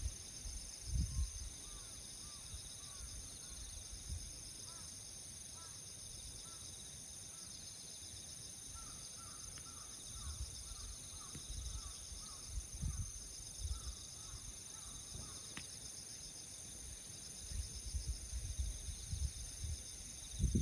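Steady high-pitched chorus of insects. Over it, a run of short bird calls repeats through the first two-thirds, with dull low thumps now and then.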